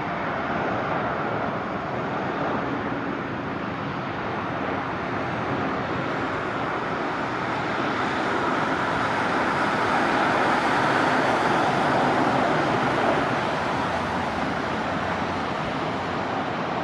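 Jet airliner engine noise: a steady rush that swells to its loudest about two-thirds of the way through, then eases.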